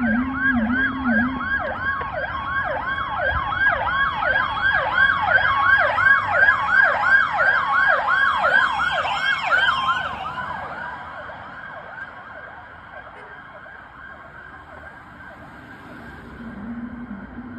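Fire apparatus siren in a fast yelp, its pitch rising and falling about two to three times a second, loud for about ten seconds and then fading away. A low wavering siren tone sounds briefly at the start and comes back near the end.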